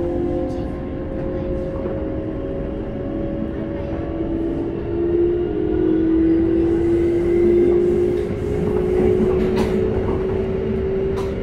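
Keikyu 600 series electric train running, heard from inside the car: steady rail rumble under the whine of its Toyo GTO-VVVF inverter and traction motors, which rises slowly in pitch as the train gathers speed. Two sharp clacks come near the end.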